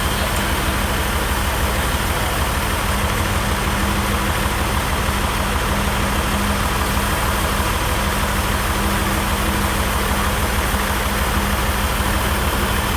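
A machine's engine running steadily at an even speed, with a rapid low pulsing throb under a steady hum.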